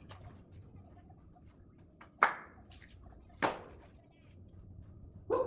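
Split oak firewood logs knocking as they are tossed onto a pile: two sharp knocks a little over a second apart, and a third near the end.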